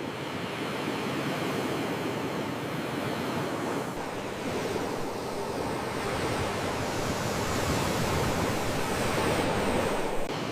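Ocean surf: waves washing in a steady rush that swells a little toward the end, then drops off abruptly just before the end.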